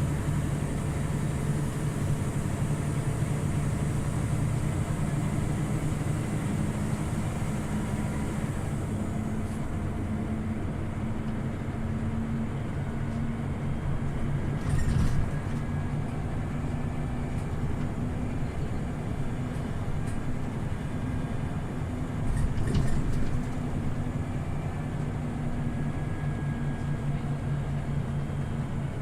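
Scania OmniLink CL94UB city bus running steadily on the move, a low engine drone with road noise as heard inside the cabin. Two short knocks come through, about halfway and again about three quarters in.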